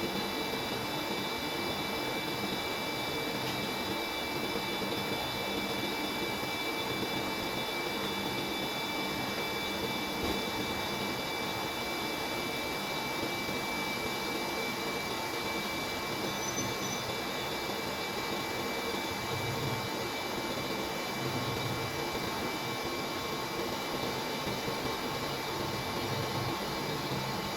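A steady mechanical whir with several constant high whining tones, unchanging throughout.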